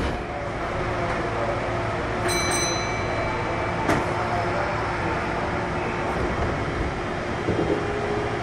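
Inside a Kintetsu 1233 series electric train car standing at a station: a steady hum and hiss from the car. A short high chime sounds a little over two seconds in, and a sharp click comes near four seconds.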